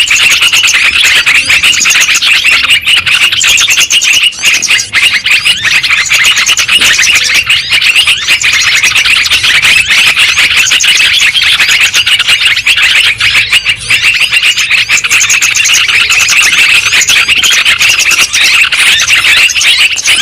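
Sooty-headed bulbuls (trucukan) chattering in a dense, unbroken stream of quick chirps, played as a lure and tutor recording for the species.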